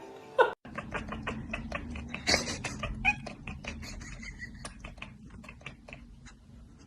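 A cat's calls amid many short clicks and knocks, with a sudden cut about half a second in.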